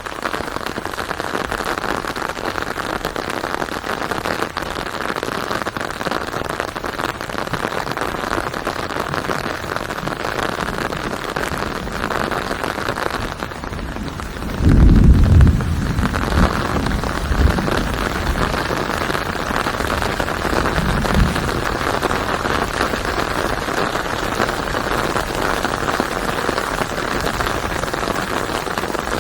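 Steady rain falling, with a low rumble about halfway through lasting a second or two and a shorter one a few seconds later.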